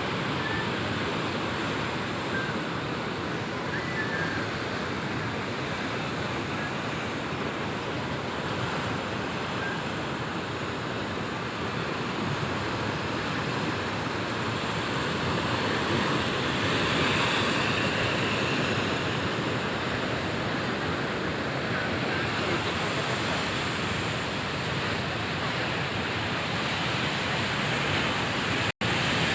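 Ocean surf at high tide: big waves breaking and washing in as a continuous rush that swells a little midway. The sound cuts out for an instant near the end.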